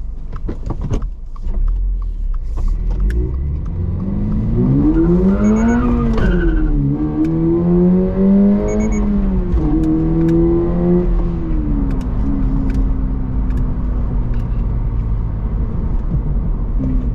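Toyota GR86/Subaru BRZ 2.4-litre flat-four engine under hard acceleration in a manual car: the engine note rises, drops sharply at an upshift about six and a half seconds in, climbs again, then settles to a steady lower drone after a further shift near the twelve-second mark.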